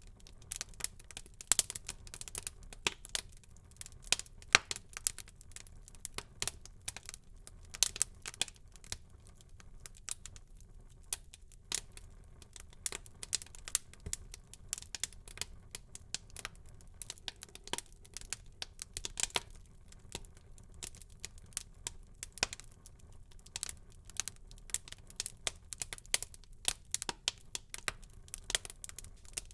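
Wood fire burning in a fireplace, crackling with many irregular sharp pops and snaps over a faint low rumble of the flames.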